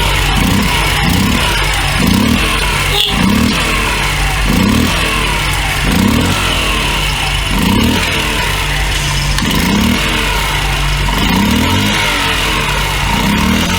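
Honda Monkey AB27's 49cc single-cylinder four-stroke air-cooled engine running, with short rises in revs recurring every second or two.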